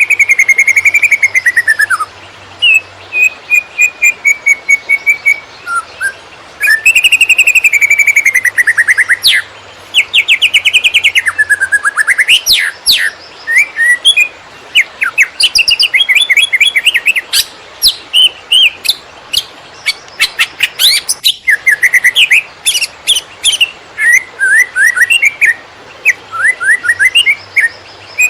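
Cucak ijo (green leafbird) singing a fast, varied song of whistled phrases, rapid trills and sharp chirps with hardly a pause: the hurried 'konslet' style kept as a master recording for training other songbirds.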